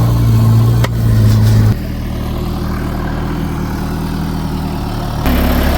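Vehicle engine running steadily at a low, even pitch, with a sharp click just under a second in. The engine sound drops and changes abruptly about two seconds in, then jumps back louder near the end.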